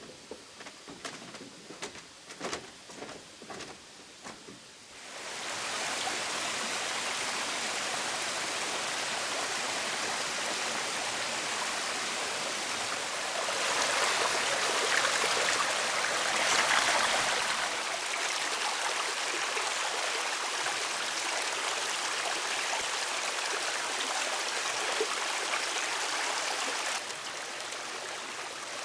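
A scatter of knocks, then hot cooking oil starts sizzling suddenly about five seconds in as cut potatoes go into the pan. The hiss holds steady, swells louder for a few seconds in the middle, and eases down a step near the end.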